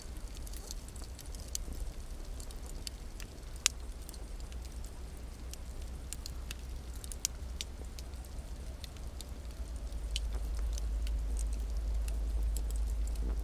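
Campfire crackling, with scattered sharp pops of burning wood, two of them louder, over a low rumble that grows louder near the end.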